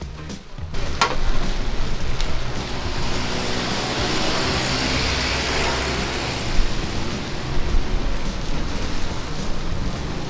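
Oyster omelet frying in oil in a large wok, sizzling steadily as egg is added over it. A sharp knock about a second in.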